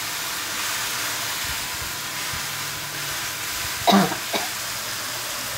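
Sliced garlic, shallots, chilli and tomato sizzling in hot oil in a wok, stirred with a spatula: an even frying hiss. A short burst of voice comes about four seconds in.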